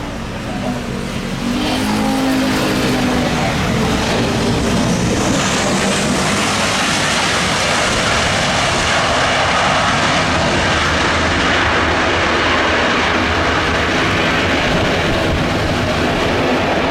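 Jet airliner engine noise, swelling about a second and a half in and then holding loud and steady as the aircraft passes close by.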